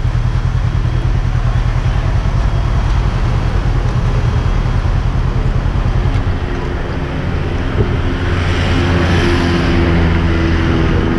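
Motorcycle engine idling with a rapid, even pulse. From about halfway a second vehicle's engine joins with a steady drone that swells as it passes.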